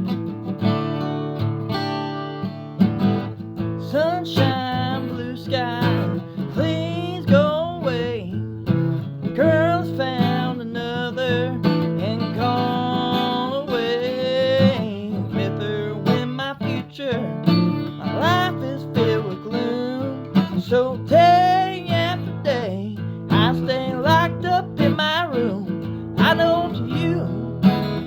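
Acoustic guitar strummed in a slow soul ballad, with a voice singing the melody over it from about four seconds in.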